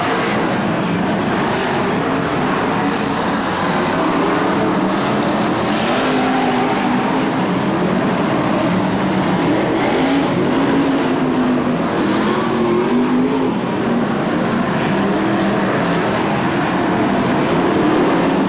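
BriSCA F1 stock cars' V8 engines running hard on the track, several engine notes rising and falling as the cars accelerate and back off.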